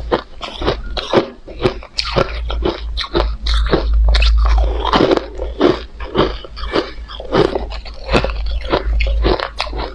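Close-miked crushed ice being bitten and chewed: rapid, irregular hard crunches, several a second, over a low rumble.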